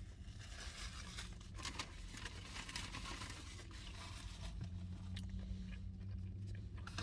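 Faint eating sounds: chewing a spicy chicken sandwich, with small crackles and crinkles. A low steady hum comes in about four and a half seconds in.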